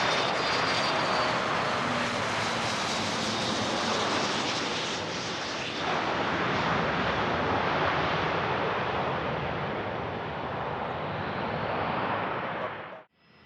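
Business jet's turbofan engines rumbling as it passes on the runway, with a faint high whine early on, slowly easing off; the sound cuts off abruptly near the end.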